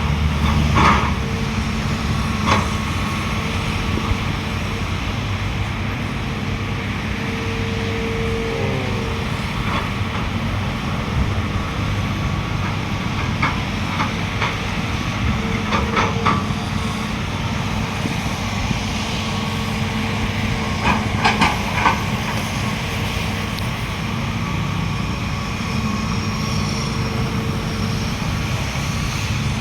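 Heavy diesel machinery (dump truck and excavator) running steadily, with short metallic clanks a few times, clustered around the middle and two-thirds through.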